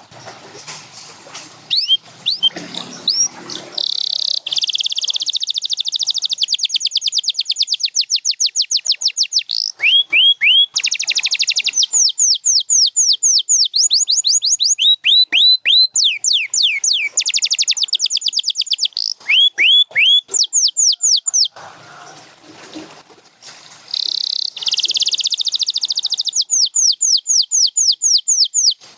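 Canary singing: phrases of rapidly repeated rising whistled notes alternating with fast, buzzy trills, broken by short pauses near the start and again about three-quarters of the way through.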